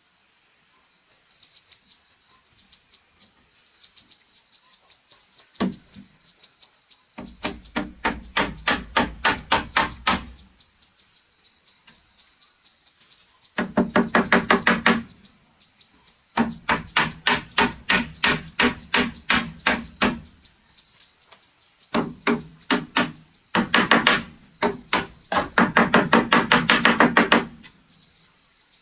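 A hand tool striking wood in quick runs of blows, about four a second, with a pause of a second or two between runs. Insects buzz steadily in the background.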